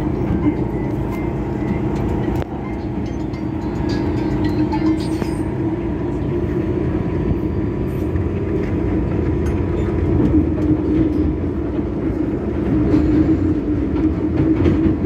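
MTR M-Train in motion, heard from inside the car: a steady hum with a low wheel-on-rail rumble, swelling a little in the last few seconds.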